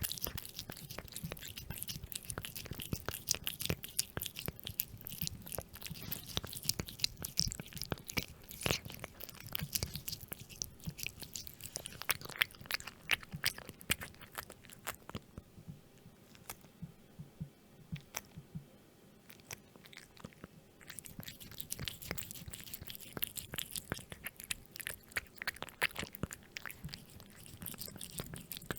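A cat chewing and crunching, with many irregular crisp crunches and clicks. The crunching thins out for several seconds around the middle, then picks up again.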